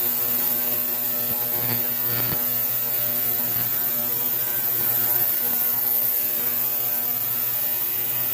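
Small 2-litre ultrasonic cleaner running, a steady buzzing hum as it works on parts soaking in heated Simple Green solution.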